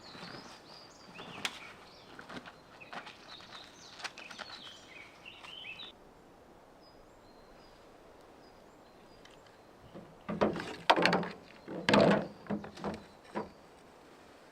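Small birds chirping in short calls for the first several seconds, then quiet, then a cluster of sharp knocks and clatter from about ten seconds in.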